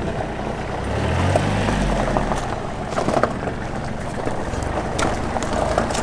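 Car engine running at low revs, its pitch rising briefly about a second in, with scattered small knocks and clicks.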